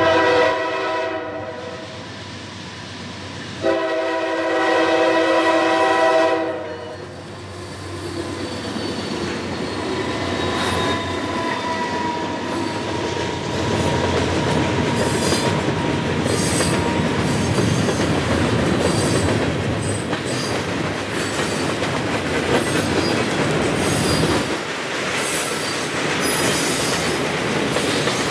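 Diesel freight locomotive's multi-chime air horn sounding for the grade crossing. It gives a short blast, then a longer one about two seconds later. The freight train then passes close by in a steady rumble of gondola cars, wheels clicking over the rail joints, with a faint thin steel-wheel squeal partway through.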